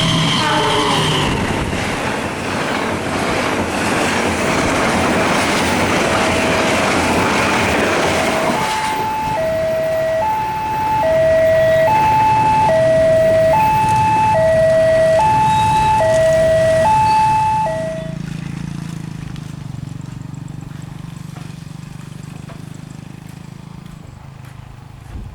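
A passing train's loud rushing rumble, joined by a two-tone warning alarm that switches between a high and a low note about twice a second and cuts off about eighteen seconds in, leaving a low steady hum.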